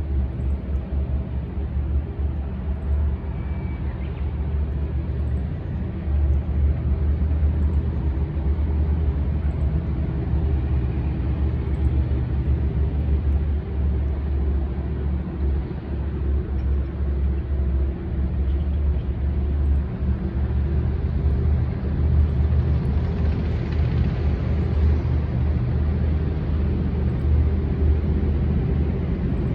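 Tank engine running with a heavy, steady low rumble that swells a little as it comes closer.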